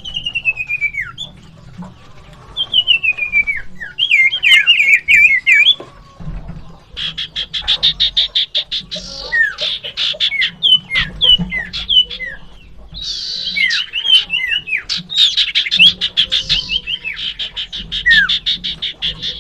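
Common ioras giving fighting calls: sharply descending whistled notes, then long, very fast rattling trills with more down-slurred whistles mixed in.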